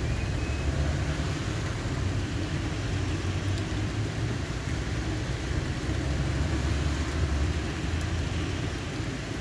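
Low rolling thunder from a distant storm, a long rumble that swells and eases, over a faint steady hiss.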